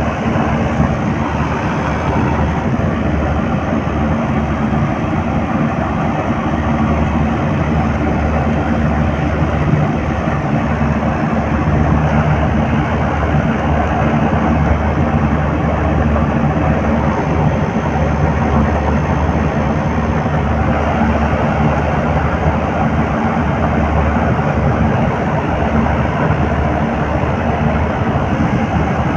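A faulty compressor running continuously: a steady low hum under a rough, noisy mechanical rush that holds unchanged throughout.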